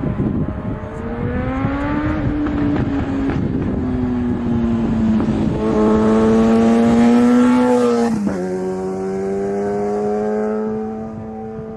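Airliner jet engines running loud over a rushing roar, with a droning tone that slides up and down in pitch, drops suddenly about eight seconds in, then holds steady.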